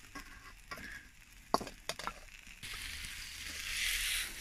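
Diced vegetables in a wok over embers, with a few sharp clicks and knocks of the pan and stirring at first, the loudest about a second and a half in. Then, about two-thirds of the way through, a sizzle sets in and grows louder as the food starts to fry.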